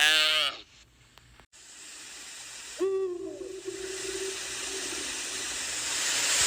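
An animal's single long hooting call about three seconds in: it opens with a short dip in pitch, then holds one low steady note for about a second and a half, over a steady hiss. The tail of a bleat is heard at the very start.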